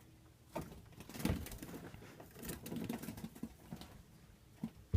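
A trapped bird fluttering and scrabbling, heard as irregular soft rustles and taps.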